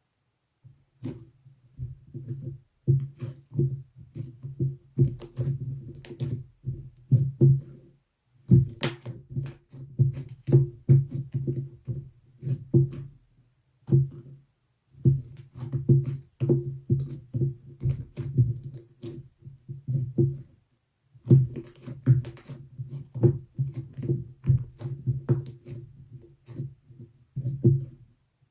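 Slime being squeezed and kneaded by hand, with wet squelches and sharp clicking pops in irregular bursts. There are brief pauses about a third of the way in, halfway through and near three quarters.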